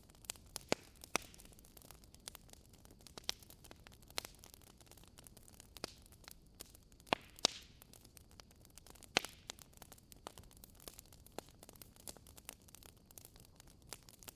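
Wood fire crackling in a fireplace: irregular sharp pops and snaps over a faint steady hiss, with a cluster of louder pops about seven seconds in.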